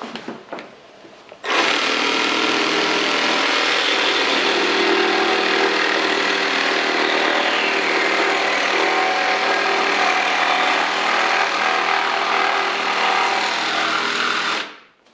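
An electric power tool starts about a second and a half in, runs steadily at full speed for about thirteen seconds, and stops suddenly near the end.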